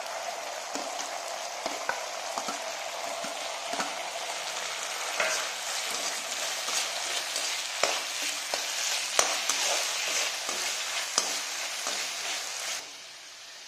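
Sliced onions sizzling and frying in hot oil in a black kadhai, stirred with a perforated steel spatula that clicks and scrapes against the pan now and then. The sizzling drops away suddenly near the end.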